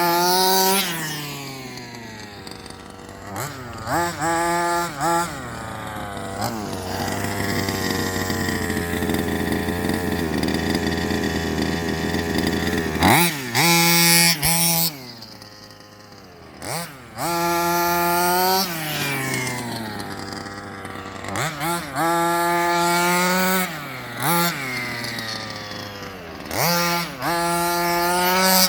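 Two-stroke gas CY engine of a Rovan Baja 1/5-scale RC buggy, freshly broken in, revving in repeated throttle blips with the pitch rising and falling. In the middle it holds high revs for several seconds before dropping back.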